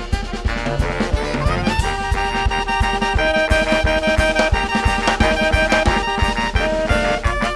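Saxophone-led band music: sustained saxophone melody lines over a steady, quick percussion beat.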